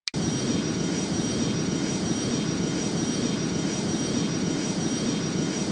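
Steady jet airliner noise: a constant rumble with a thin, high, steady whine over it.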